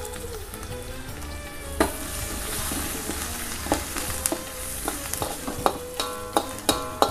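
Spice paste of pounded chillies and onions sizzling in hot oil in a metal wok, while a metal spatula stirs it. The spatula clicks and scrapes against the wok now and then, more often in the last couple of seconds.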